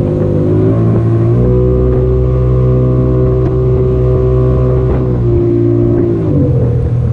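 Boat engine running under way, throttled up about a second in, then eased back in two steps after about five seconds.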